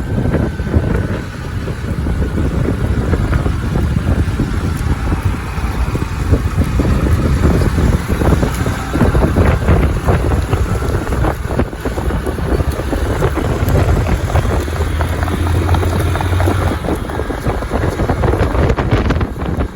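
Wind buffeting the microphone over a low, steady rumble, with irregular crackles throughout.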